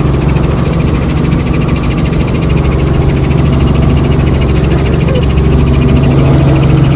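Helicopter running steadily: a loud engine and rotor drone with a fast, even beat from the blades.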